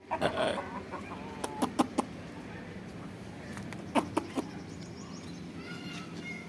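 Aseel chickens calling in short pitched notes, with a few sharp taps in two quick clusters.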